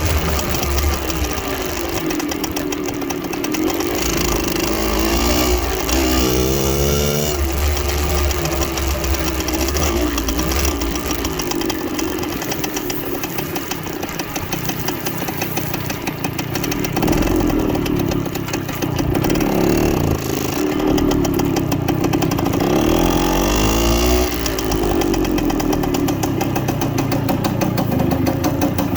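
1969 Harley-Davidson Aermacchi MLS-125 Rapido's single-cylinder two-stroke engine running under way, its pitch climbing and dropping again and again as it revs up and eases off.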